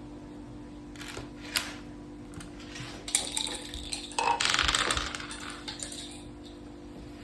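Dice and playing pieces clattering on a mak saka board: a few sharp clicks, then a denser rattle about four seconds in that lasts about a second.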